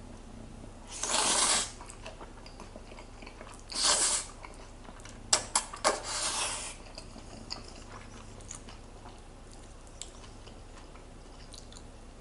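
Someone eating Chapagetti black bean noodles with Spam and kimchi: three short noisy eating sounds about a second, four seconds and six seconds in, with a few sharp clicks just after five seconds.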